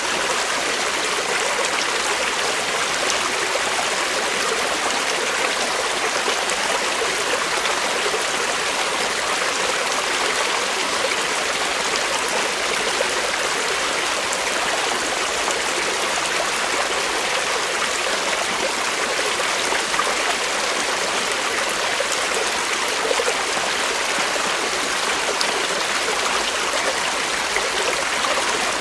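Creek water flowing steadily over rocks, a continuous even rush with light trickling and no breaks.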